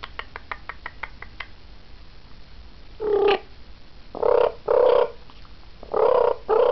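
African grey parrot making a quick run of about seven sharp clicks, then five short, harsh, rasping calls in pairs.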